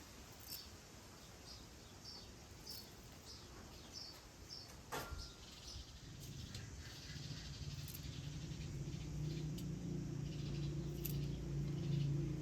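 Small birds chirping in short, repeated high notes, with a single sharp click about five seconds in. A low, steady hum rises gradually through the second half.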